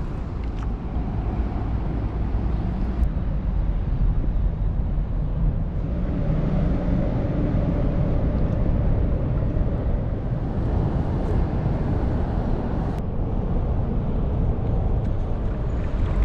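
Steady low engine rumble with a faint steady hum, holding at an even level.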